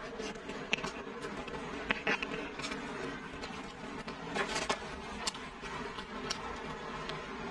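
Close-miked chewing of braised pork shank: wet mouth sounds and scattered sharp smacks and clicks, heaviest about two seconds in and again past the middle, over a steady buzzing hum.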